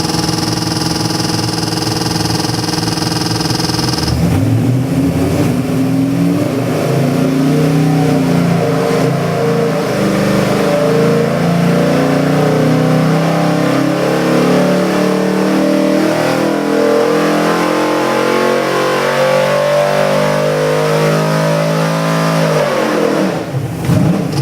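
Carbureted Ford 427 Windsor V8 race engine running steadily, then about four seconds in opening up for a long full-throttle pull with the pitch climbing gradually for nearly twenty seconds. Near the end the revs drop away sharply as the throttle closes. The pull is the dyno run that makes 630 horsepower and 605 ft-lb of torque.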